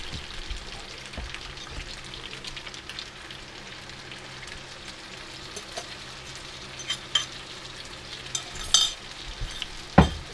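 Beef strips frying in hot oil in a steel wok over a high gas flame, a steady sizzling hiss. A few sharp clicks sound in the second half.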